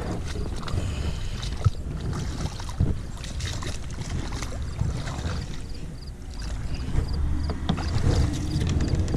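Kayak on open water with wind rumbling on the microphone, a few sharp knocks on the hull, and a faint high ticking repeating at an even pace.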